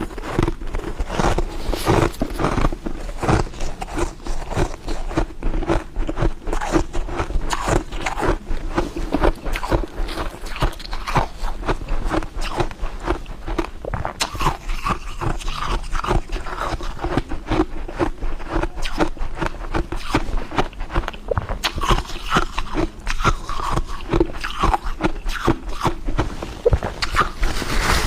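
Close-up crunching and chewing of frozen ice frost: dense, rapid crackling crunches without pause.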